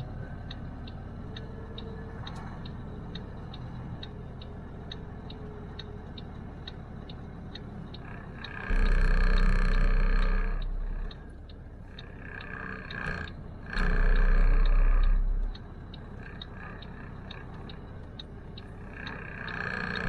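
Rapid, even clicking, about three a second, from the pickup's turn-signal flasher. Three times it is covered by a louder steady drone lasting one to two seconds.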